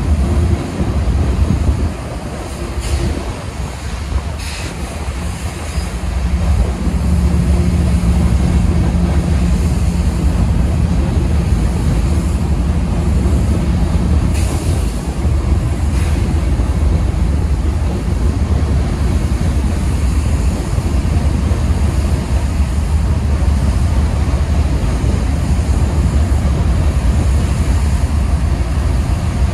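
Freight trains of hopper cars rolling past: a steady, loud rumble of wheels on rail, with a low hum for several seconds in the first half and a few brief sharp sounds.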